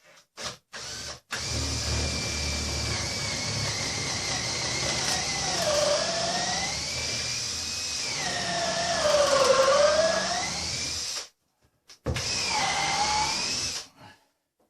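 Electric drill boring through timber, with a few short taps of the trigger and then a run of about ten seconds. The whine sags in pitch twice as the bit bites under load. The drill stops, then runs again briefly for about two seconds.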